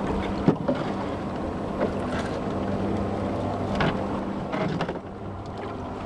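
Small fishing boat's engine running steadily under wind and sea noise, with a few short knocks.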